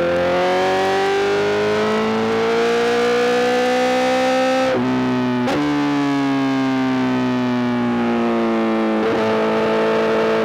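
Honda CBR1000RR-R SP inline-four through a full Arrow GP exhaust, revving up under acceleration. A gear change breaks it about five seconds in, the pitch then sinks steadily as the bike slows, and another shift about nine seconds in lifts the pitch again.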